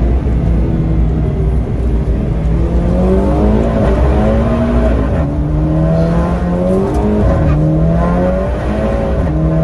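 Car engine heard from inside the cabin under acceleration, rising in pitch in several sweeps with brief dips between them, as at gear changes.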